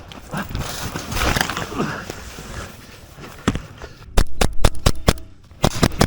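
Airsoft guns firing: a rapid string of sharp cracks starting about two-thirds of the way in, a short pause, then a few more shots, over rustling movement on the field.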